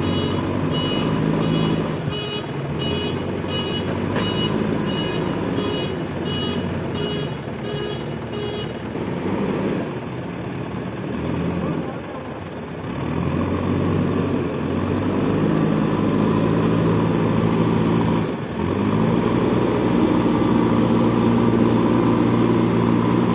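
Heavy diesel engines of a backhoe loader and a tractor running hard under load. A reversing alarm beeps about one and a half times a second for the first nine seconds or so. The engine note rises about halfway through and again near the end.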